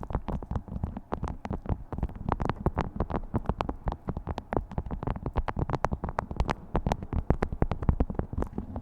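Beeswax food wrap being crinkled and handled, a dense run of crackles and crisp clicks as the waxed cloth folds and unfolds.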